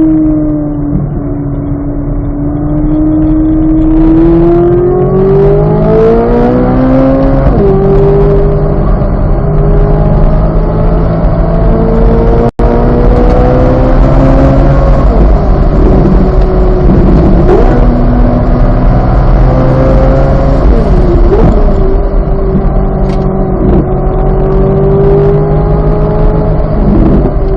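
2023 Chevrolet Corvette Z06's flat-plane-crank 5.5-litre V8 pulling hard on track: the engine note climbs through the revs and drops sharply at a gear change about seven seconds in and again near the end, with a few brief dips and recoveries in between.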